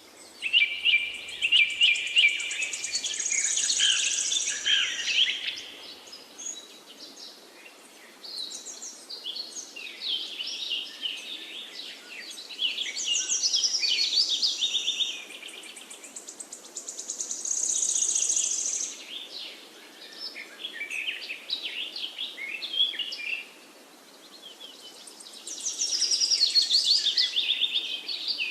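Wild songbirds singing: bursts of rapid chirping, trilled phrases come every few seconds, with quieter chirps between them over a faint steady background hiss.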